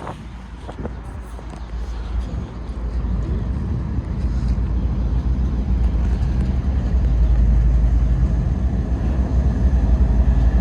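Freight train rolling past, with the low rumble of a diesel locomotive, a mid-train distributed-power unit, growing steadily louder as it approaches.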